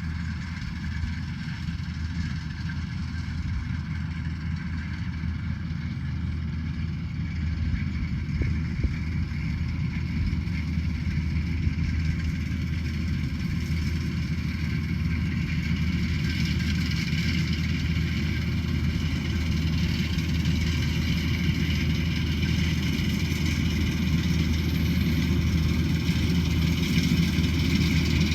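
Rice combine harvester running steadily, its engine hum growing gradually louder, with a brighter mechanical whir coming up from about halfway.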